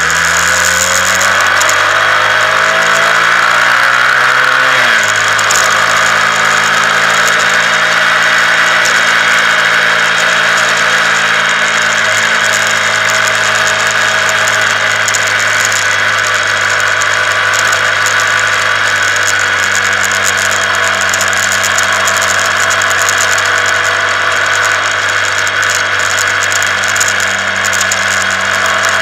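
Honda CBR125R's single-cylinder 125 cc four-stroke engine under way. It rises in pitch under acceleration for about five seconds, drops sharply as it shifts up, then runs at a steady cruise, with constant wind rush over the bike.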